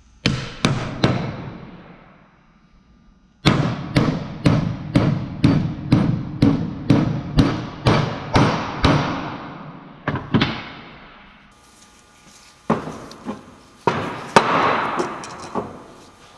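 Hammer blows on a socket driving a differential carrier bearing onto a Dana 44 carrier, the socket pushing only on the bearing's inner race. Three blows, then a steady run of about a dozen blows roughly three a second with a ringing note under them, then a few scattered blows near the end.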